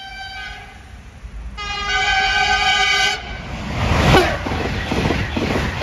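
Sapsan high-speed electric train (Siemens Velaro RUS) sounding its horn twice: a chord that fades out just after the start, then a louder blast of about a second and a half. The train then rushes past at speed, loudest about four seconds in, with a fast, rhythmic wheel clatter.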